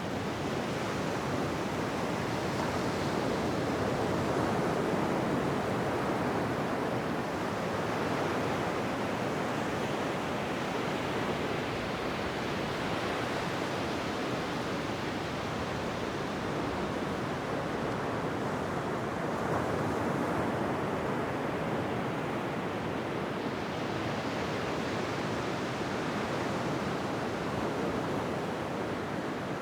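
Ocean waves washing onto a beach, a continuous rush of surf that swells and eases slowly every several seconds.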